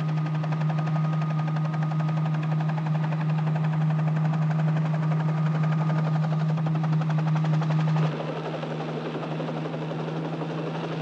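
Helicopter in flight: a steady engine and rotor drone with a fast, even chop. It drops in level and changes character about eight seconds in.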